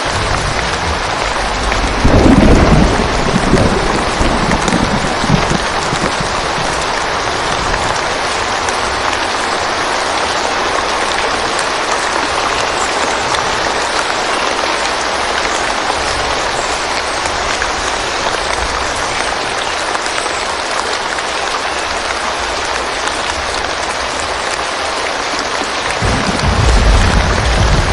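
Steady heavy rain falling, with low rumbles of thunder about two seconds in and again near the end.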